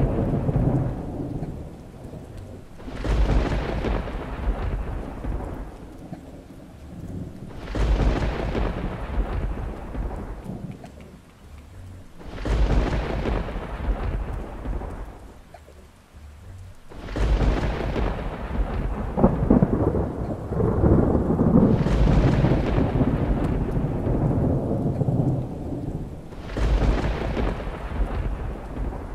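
Thunder in a heavy thunderstorm with rain: a series of about six claps, one every four to five seconds. Each begins suddenly and rolls off into a rumble over several seconds, and the claps in the middle run together into a longer, louder roll.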